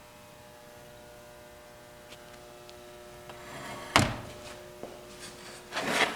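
Handling noise from a chainsaw being moved about: a single sharp thunk about four seconds in, then a shorter rustling knock near the end, over a faint steady hum.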